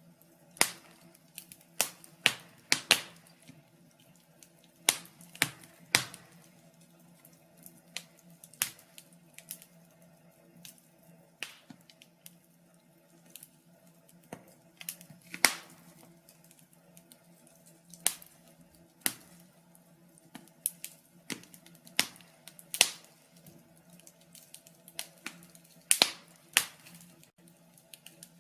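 Wood fire crackling in a fireplace: irregular sharp pops and snaps, several a second and some much louder than others, over a faint steady low hum.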